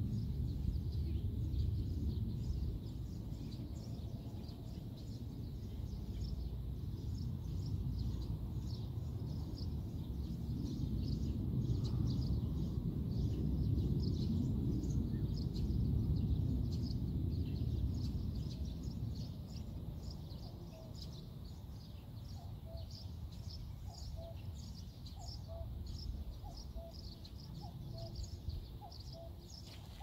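Small birds chirping in quick repeated calls over a low outdoor rumble that swells around the middle and eases off later. A lower short call repeats now and then in the last third.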